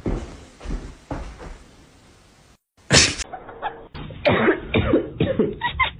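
A run of harsh coughs or hacking sounds, a few in a row, followed by a short break and one more loud cough.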